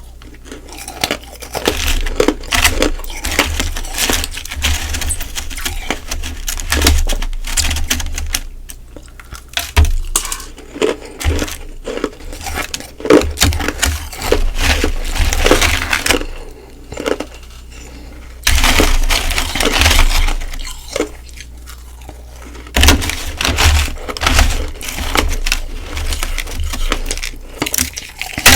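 Humidifier frost ice being bitten and crunched close to the microphone, in repeated bursts of crackling with short pauses between.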